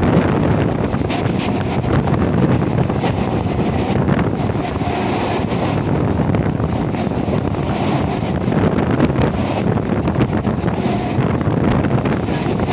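Wind rushing over the microphone at an open train window, over the steady rumble and rattle of a suburban electric local train running at speed on the rails.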